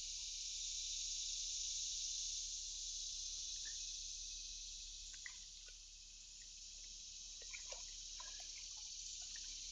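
Steady high-pitched chorus of crickets, with a few faint short ticks in the second half.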